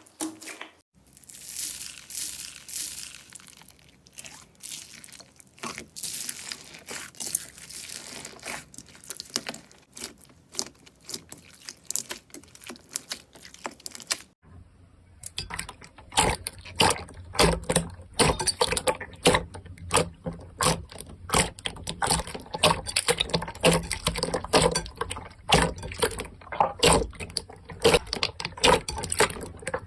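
Hands squishing and stretching slime: sticky, wet crackling and popping. About halfway through it changes to denser, sharper clicking.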